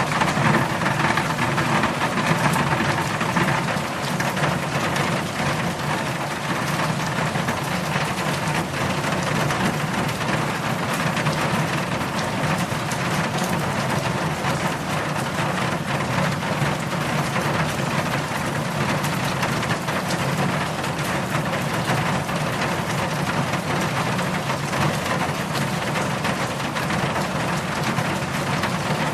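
Heavy rain falling steadily, a dense even hiss of countless drops with a low rumble underneath, unchanging throughout.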